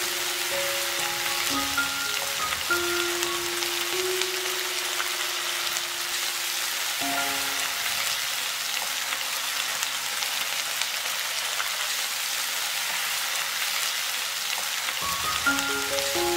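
Onions, tomatoes and garlic sizzling steadily in hot oil in a wok as they are stirred. Soft background music plays over it for the first several seconds and comes back near the end.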